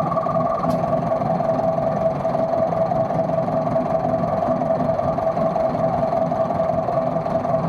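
Locomotive engine running steadily with a constant hum that does not change in pitch, and a faint click about a second in.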